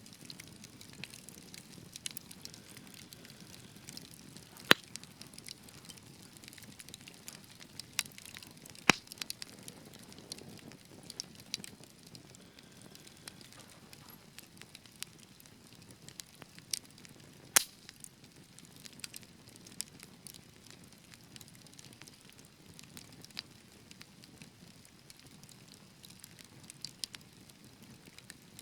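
Wood fire burning with a soft hiss and irregular crackles and pops, a few of them sharp and loud.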